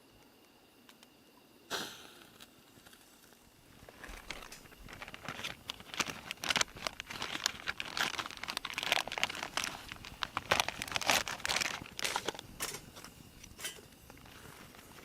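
Crinkling and crumpling, a dense run of irregular crackles that starts about four seconds in and dies away near the end, after a single sharp knock just before two seconds in.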